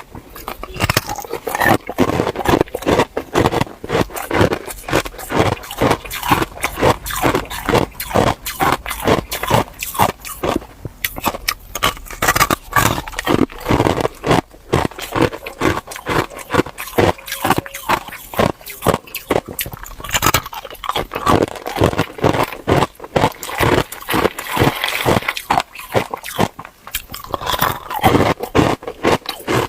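A person chewing ice, a steady run of sharp, loud crunches close to the microphone with a few brief pauses.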